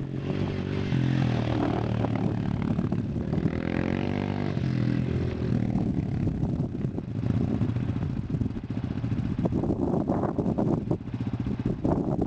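A dirt bike is ridden down a trail, its engine note rising and falling as it comes through, with scattered clattering toward the end.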